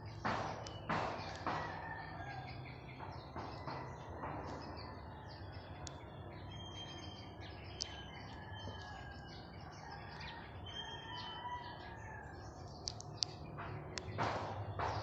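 Birds chirping, many short high calls and a few held whistled notes, over a low steady hum. A few louder noises come about a second apart near the start, and one more near the end.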